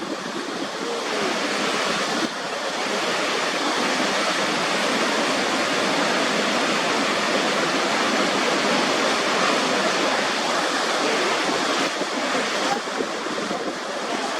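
Waterfall: a loud, steady rush of falling water, mostly hiss with little deep rumble, its character shifting slightly about two seconds in and again near the end.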